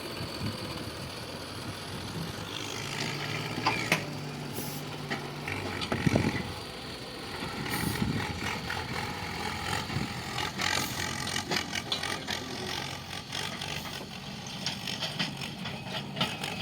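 Heavy diesel machinery engine running steadily, with several sharp metallic clanks and knocks scattered through.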